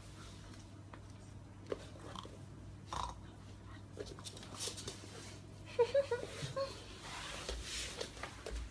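A dog chewing, with scattered clicks and crunches and a short run of brief squeaks about six seconds in.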